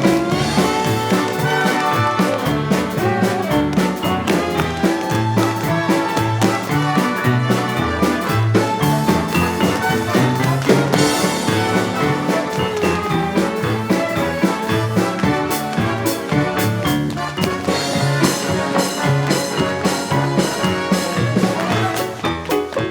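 Theatre pit orchestra playing an up-tempo swing-style instrumental passage, with brass over a pulsing bass line and many sharp rhythmic clicks.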